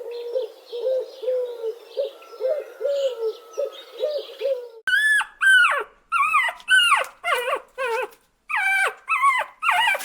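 Animal calls: a run of soft, short, low calls repeating about twice a second, then, from about halfway, a string of louder, higher calls, each falling in pitch, coming in quick groups.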